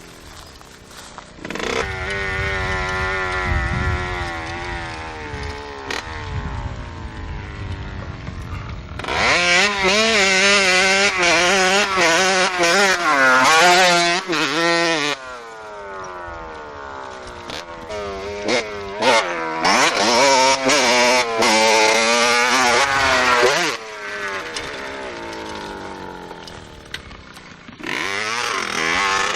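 Motorcycle engines running and revving, the pitch climbing and dropping again and again, with two louder spells of hard revving in the middle.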